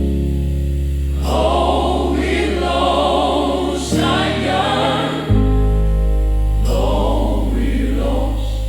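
Gospel choir singing over long-held low chords. The voices come in about a second in, pause around the middle, then return, while the chord underneath changes twice.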